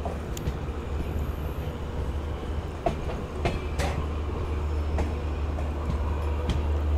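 Passenger train coach rolling along a station platform, heard from its open doorway: a steady low rumble with about five scattered clicks and clunks of the wheels over rail joints.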